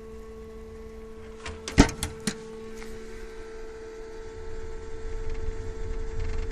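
A steady mechanical hum with a quick run of sharp knocks or clicks about two seconds in, then a low rumble that grows toward the end.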